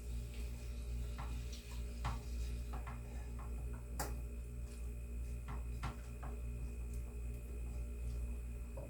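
Scattered light clicks and taps from a spatula in a pan of stir-fry while frozen vegetables cook, coming at irregular moments. A steady low hum runs underneath.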